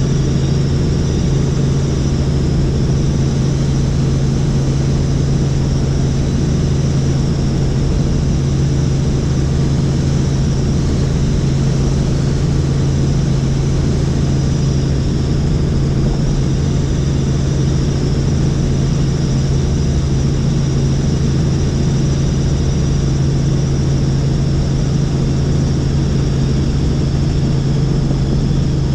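Helicopter heard from on board in steady flight: a loud, unchanging drone of engine and rotor with a high turbine whine above it.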